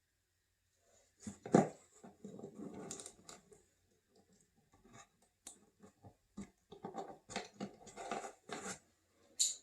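Close handling noise of small objects on a work surface: rustling and light clicks, with a sharp knock about a second and a half in and a crisp click near the end.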